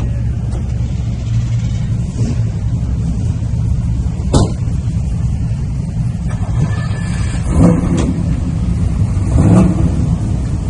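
A car engine running with a steady low rumble. A single sharp knock comes about four seconds in.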